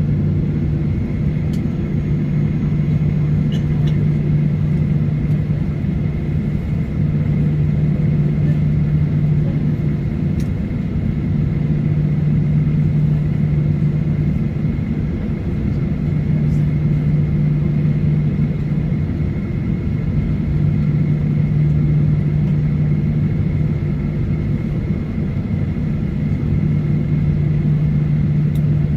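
Steady cabin drone of a Boeing 737-900ER with its CFM56 engines running at low power. A strong low hum swells and fades every few seconds, with a few faint ticks.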